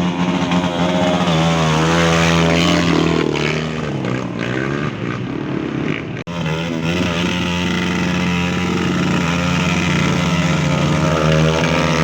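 Steady hum of running motors, its pitch wavering slightly, broken by a sudden short drop about halfway through.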